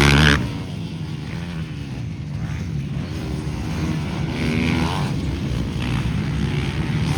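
Motocross bikes racing: one engine loud and close at first, dropping away sharply about half a second in, then quieter engines revving up and down.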